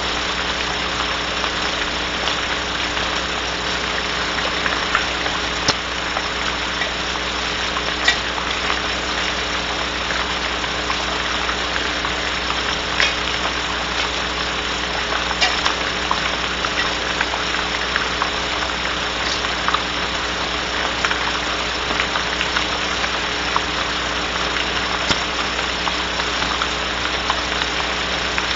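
Steady rain hiss on the owl nest box, with scattered faint ticks of drops and a constant low electrical hum from the camera feed.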